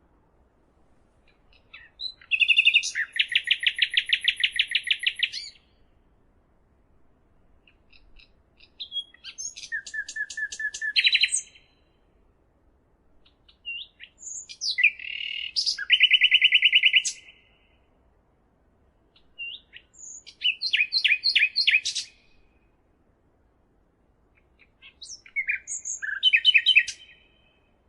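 A songbird singing: five phrases of fast trills and rapidly repeated high notes, each about three seconds long, with pauses of a couple of seconds between them.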